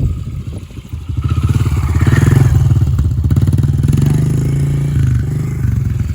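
Honda motorcycle engine revving up about a second in, holding high revs for several seconds, then easing off near the end. An apple pressed against the turning tyre does not stall it.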